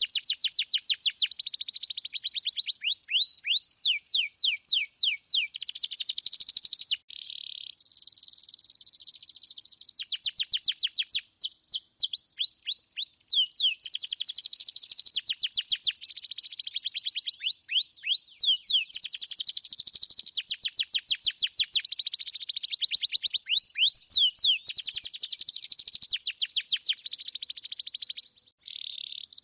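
Domestic canary singing a continuous song of fast rolling trills, each a run of rapid, repeated, sharply falling whistle notes, switching between trill types every second or two and pausing briefly twice.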